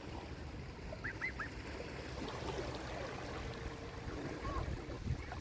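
Sea waves washing onto a shore with a steady low rumble. A few faint, short, high calls come about a second in and again near the end.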